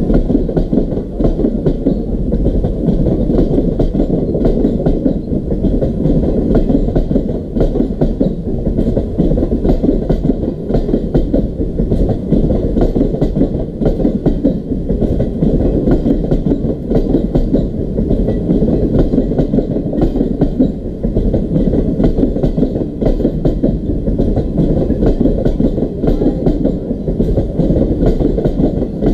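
Indian Railways passenger coaches rolling past at close range, their steel wheels clattering steadily over the rails.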